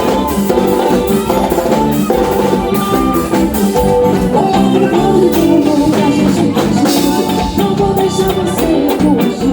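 Live band playing an upbeat Brazilian axé song with drum kit, percussion and guitar, with a steady driving beat.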